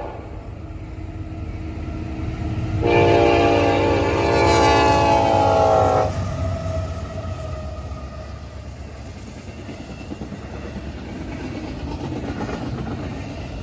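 A Norfolk Southern locomotive horn sounds one long, loud blast about three seconds in, lasting about three seconds. Under it runs the steady low rumble of the intermodal train rolling through the crossing.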